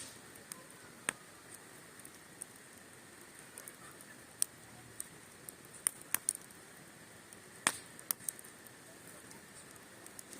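Wood fire crackling: irregular sharp pops and snaps, a few a second at times, over a faint steady hiss.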